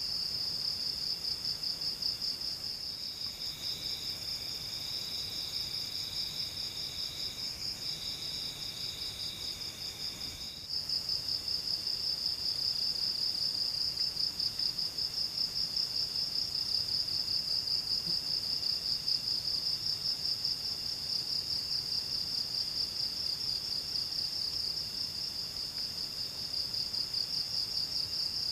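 Forest insects chirping in a steady, rapid, high-pitched pulsing trill. A second, lower-pitched insect trill joins a few seconds in, breaks briefly, and stops about ten seconds in.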